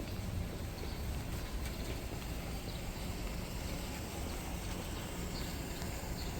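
Steady city street ambience: a constant low rumble with an even hiss over it and a few faint clicks.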